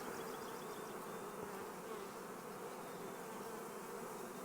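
Honeybees buzzing around a hive, a faint, steady hum.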